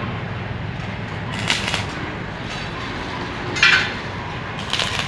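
Three sharp metallic clinks and knocks of metal parts being struck or handled, the loudest about three and a half seconds in, over a steady low hum.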